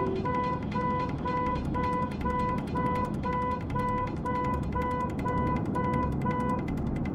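Electronic beeping repeating steadily at about two beeps a second, stopping shortly before the end, over a low rumbling background.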